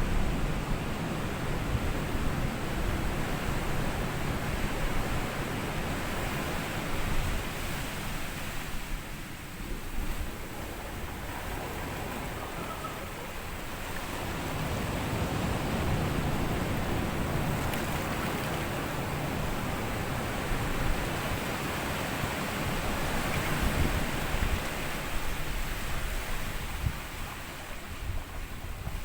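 Small sea waves washing up a sandy beach and drawing back, a continuous wash that swells and eases every several seconds, with a low rumble of wind on the microphone.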